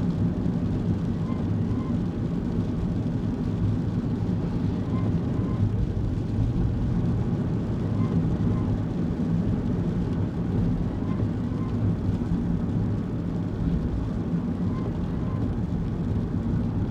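Kei car driving, heard from inside the cabin: a steady low rumble of engine and road noise. Faint soft ticks come in pairs every few seconds.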